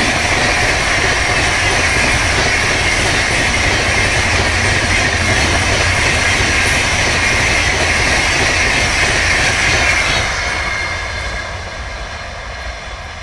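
Indian Railways train running at speed on the track, loud and steady, then growing quieter from about ten seconds in.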